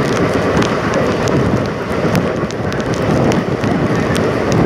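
Express passenger train running at speed, heard from an open coach doorway: a steady rush of wheel and wind noise with scattered sharp ticks.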